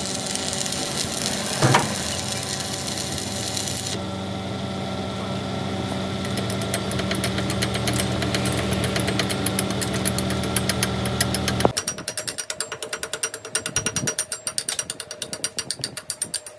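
Machinery running steadily with a hum and a rapid rattling, cutting over near the end to a fast, choppy pulsing, like a power tool working on metal.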